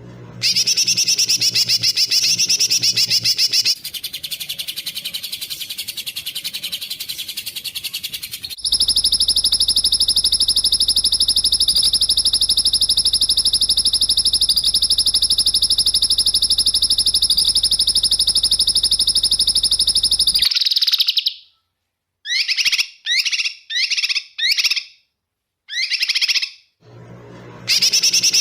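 Recorded songbird calls cut together as masteran training audio. A rapid buzzy trill changes abruptly to a different trill, then to a long steady high trill that cuts off suddenly about twenty seconds in. Five or six short separate chirps follow, and the rapid trill starts again near the end.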